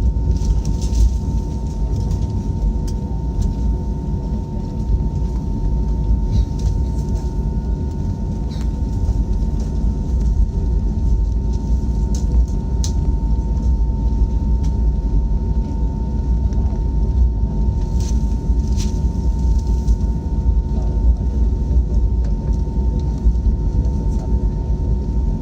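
Jet airliner cabin noise: a steady, loud low rumble of the engines with a constant high whine running through it, heard from inside the passenger cabin, with a few faint ticks.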